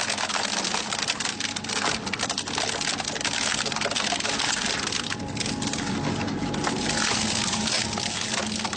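Industrial shredder grinding through metal engine parts: dense crunching and crackling over a steady motor hum.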